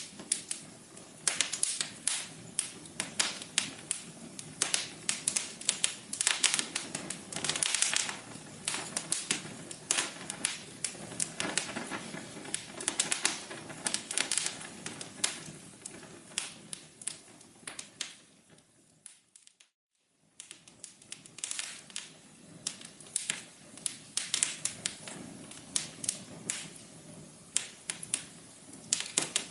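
Wood fire crackling in a fireplace, with dense, irregular pops and snaps over a low hiss. About two-thirds of the way through it fades to silence for about a second, then picks up again.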